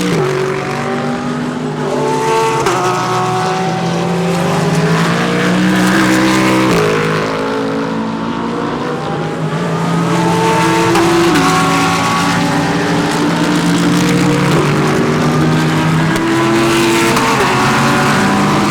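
Several GT3 race cars passing one after another, their engines at high revs with the pitch stepping up and down through gear changes, the notes of different cars overlapping.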